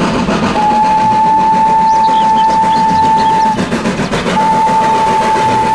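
A steam locomotive dressed as Thomas the Tank Engine runs under way, its whistle sounding two long blasts on one steady pitch. The first starts about half a second in and lasts about three seconds. The second starts a second later and is still sounding at the end.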